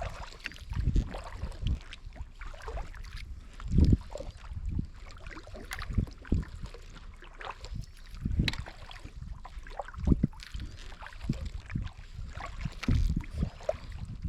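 Kayak paddling: paddle blades dipping and splashing, with water slapping the hull in irregular low thumps, the loudest about 4 s and 10 s in.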